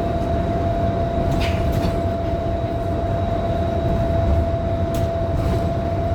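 Cabin sound of a Scania K310IB city bus under way: the five-cylinder diesel and the road rumble run steadily with a constant whine over them, and a few faint clicks.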